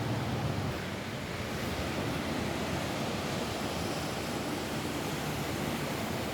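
Steady rain falling on a roof: an even, unbroken rushing hiss with some low rumble.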